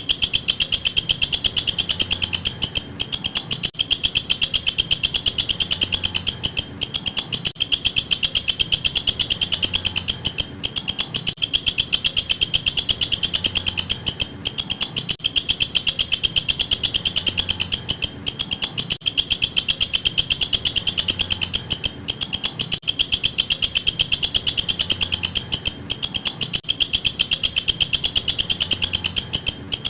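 Walang kecek insect calling: a loud, continuous, rapid pulsing high-pitched trill, broken by very short gaps every few seconds.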